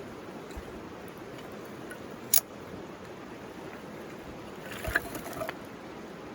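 Steady rush of a river. A single sharp crack from the burning bamboo comes about two seconds in, and a short run of clicks and knocks follows near the end.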